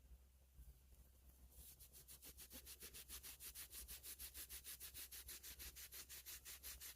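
Cloth rubbing quickly back and forth over a pocket knife's metal bolsters and backspring, buffing off Autosol metal polish. It comes in faint, even strokes at about five a second, starting about a second and a half in.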